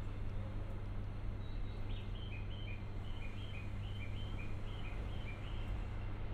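A small bird calls a quick run of short chirps, alternating a higher and a lower note, for a few seconds starting about two seconds in. Under it runs a steady low hum.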